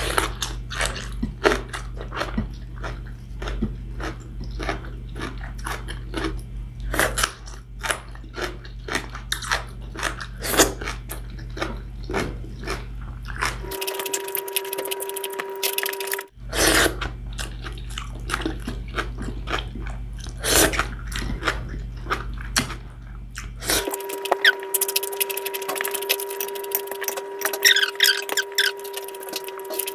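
Close-up chewing and mouth sounds of someone eating a meal of adobo chicken wings, vegetables and rice by hand, a steady run of short wet clicks and smacks. A steady tone comes in briefly about 14 seconds in and again for the last six seconds.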